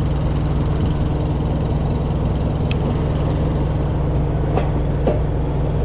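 An engine idling steadily with a low, even hum, plus a few faint ticks.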